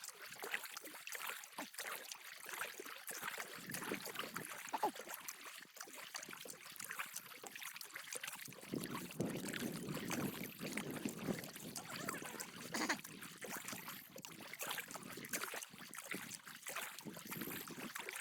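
Water trickling and splashing around a canoe being paddled, with irregular dripping and splashing from the paddle strokes.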